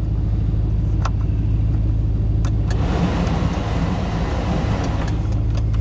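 The 1991 Chevrolet Silverado's 5.7-litre V8 idling steadily. A couple of clicks, then about three seconds in a rush of air from the climate-control blower starts and stops again near the end.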